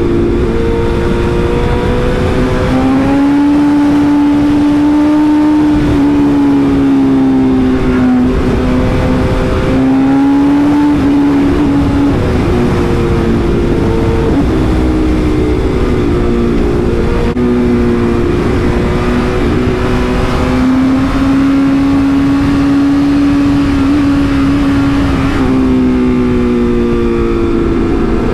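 Motorcycle engine running at speed, its pitch shifting up and down several times with throttle and gear changes, over a steady rush of wind noise.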